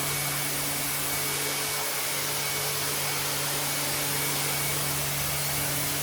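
A rug-cleaning machine's motor running steadily: an even, loud hiss with a low hum underneath.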